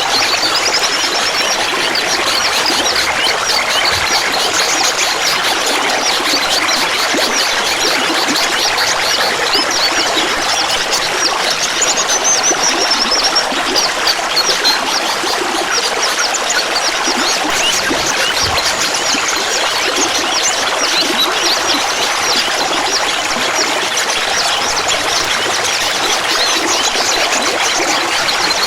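Clear water babbling and trickling steadily, a dense patter of small splashes and gurgles.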